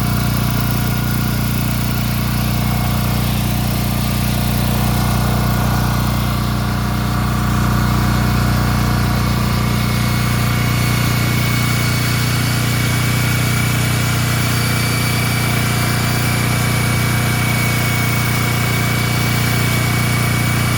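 Engine of the core-drilling equipment running at a steady, constant speed: an unbroken low drone with no change in pitch.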